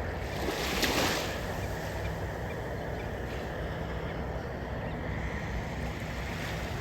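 Sea water washing and wind on the open water, with a brief louder rush about a second in.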